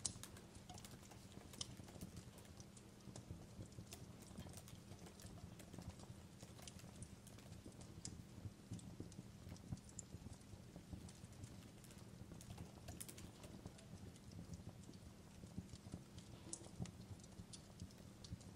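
Faint fireplace crackling: irregular sharp pops and snaps over a low steady rumble.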